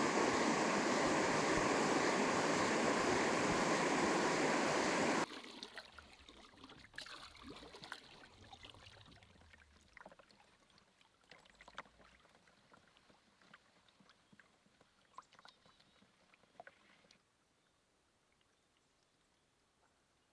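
A steady rushing noise cuts off abruptly about five seconds in. Then come quiet canoe-paddling sounds, soft drips and small knocks of a paddle working the water, which stop a few seconds before the end.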